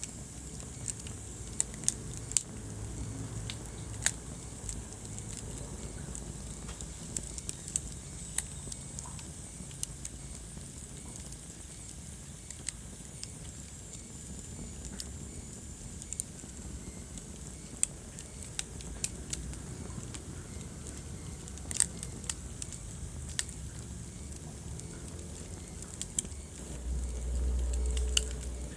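Wood fire burning in a fireplace, crackling and popping with irregular sharp snaps over a steady low rumble of the flames. The low rumble swells briefly near the end.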